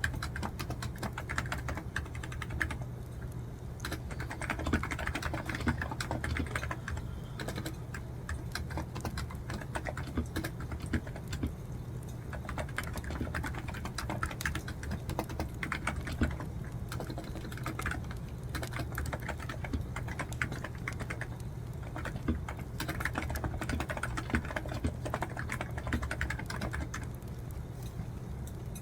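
Computer keyboard typing: rapid, irregular keystrokes in uneven bursts with short pauses, over a steady low hum.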